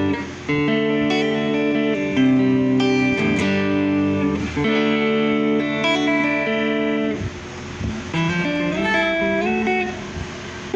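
Electric guitar played through a Mosky DTC effects pedal: ringing chords that change about once a second, then, about seven seconds in, a sparser passage of single notes.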